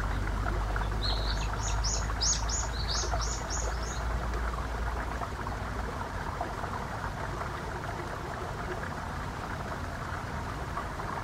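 A songbird chirping, a quick run of about eight short high calls in the first few seconds, over a steady outdoor hiss.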